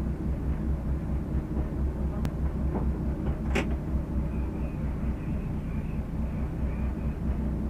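Citroën Saxo VTS rally car's four-cylinder engine idling with a steady, even low throb, heard from inside the stripped, caged cabin. Two sharp clicks sound over it, the louder one about three and a half seconds in.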